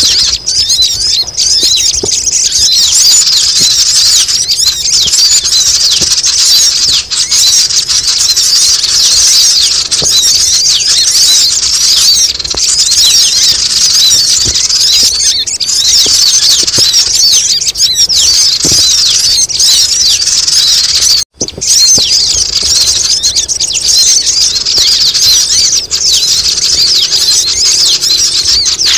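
Bird-lure (pikat) recording for sogon birds: a loud, dense chorus of rapid high-pitched chirps and squeaks from many small birds, running without pause except for a brief break about two-thirds of the way through.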